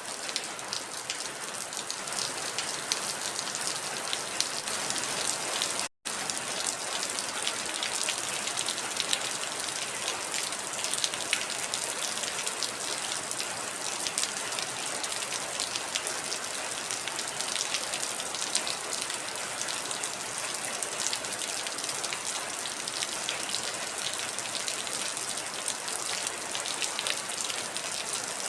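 Steady heavy rain falling on a surface, a dense hiss full of individual drop ticks. It cuts out for an instant about six seconds in.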